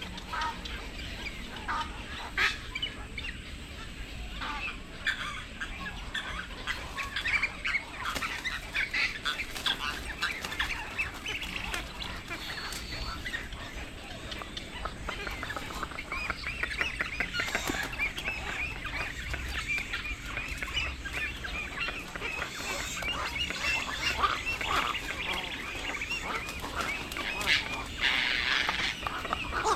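Black-crowned night herons calling: a dense, continuous chorus of many short, overlapping squawks and clucks.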